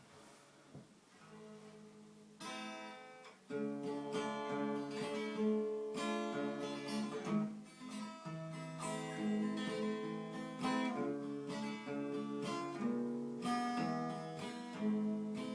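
Acoustic guitar playing the instrumental introduction to a Russian romance, in chords and picked notes. It starts with a single chord about two seconds in and plays continuously from about three and a half seconds on.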